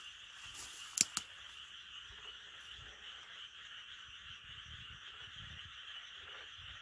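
Steady chorus of frogs calling at night, with two sharp clicks about a second in.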